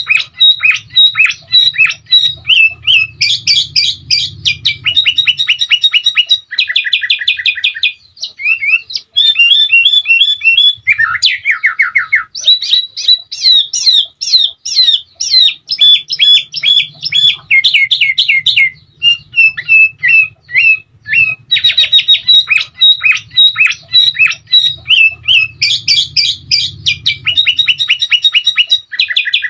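Sooty-headed bulbul (kutilang) singing a long, nearly unbroken song: fast rattling trills and quick runs of repeated whistled notes, with hardly a pause between phrases.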